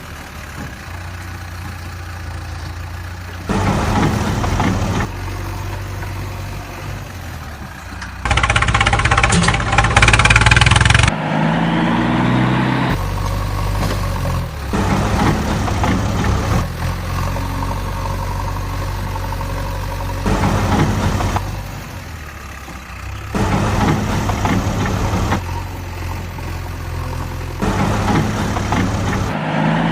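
A series of short engine sound clips joined by abrupt cuts every few seconds: steady engine idling, a louder harsher stretch about a third of the way in, and an engine revving up just after it and again near the end.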